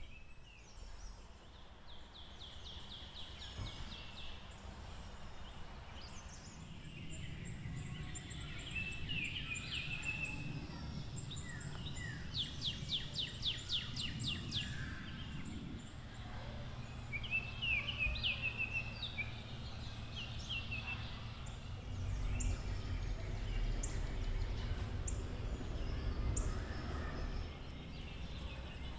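Wild birds singing and calling, with several fast trills in the first half and short chirps around the middle. A low rumble underneath grows stronger in the second half.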